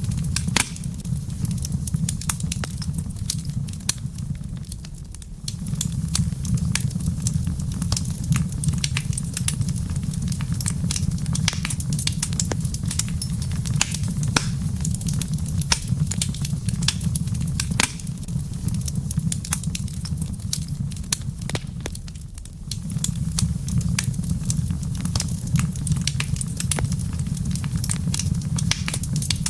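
Wood fire crackling, with frequent sharp pops and snaps over a low steady rumble of the flames. The rumble drops away briefly about five seconds in and again a little past twenty seconds.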